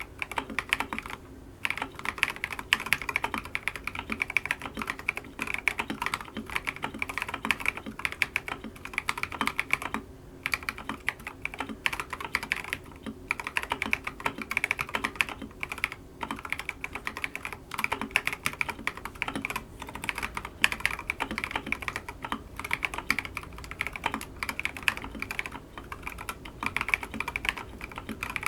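Continuous fast typing on a Wuque Studios Ikki68 Aurora mechanical keyboard with Tecsee Diamond/Jadeite linear switches, an aluminum plate and Akko ASA-profile keycaps: a dense run of keystroke clacks with a few brief pauses.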